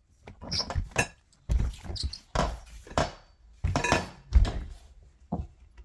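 Steel tube parts of a mini trampoline being handled and fitted together: about a dozen irregular metal clunks and knocks with a little rattle.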